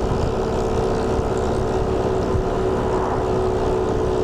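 Single-cylinder motorbike engine running at a steady pitch while riding, with wind rushing over the microphone.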